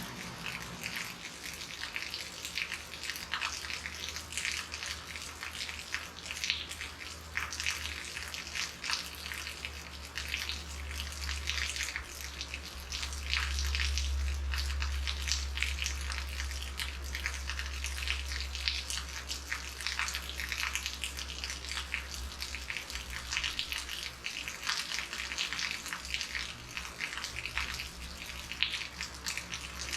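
Heavy rain falling steadily, a dense patter of drops. A low rumble rises under it in the first half, is strongest near the middle and fades out later.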